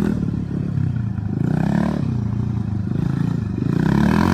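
Honda XR100R dirt bike's single-cylinder four-stroke engine revving up and down as it is ridden, its pitch climbing twice, once partway through and again near the end.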